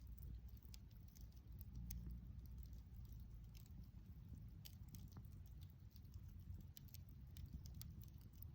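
Wood campfire crackling faintly: scattered, irregular sharp pops and snaps over a low rumble.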